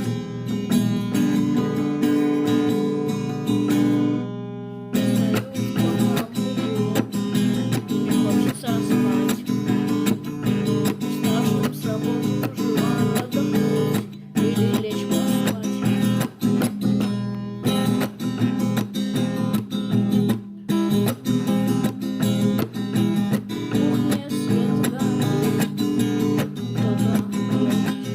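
Strummed acoustic guitar music, with short breaks about 5, 14 and 20 seconds in.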